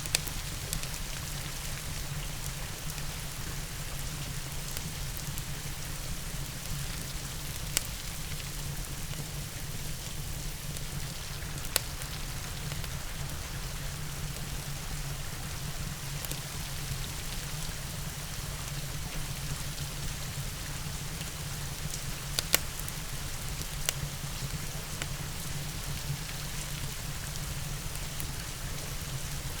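Steady rain with a low rumble underneath, mixed with a wood fire crackling. About half a dozen sharp pops of burning wood stand out over the hiss.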